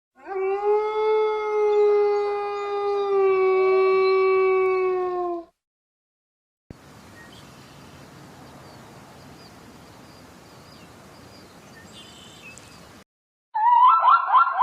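A canine howl: one long, steady, pitched call lasting about five seconds that sags slightly in pitch at the end. After a brief gap comes a few seconds of faint, even hiss, and near the end a loud, rapidly warbling call begins.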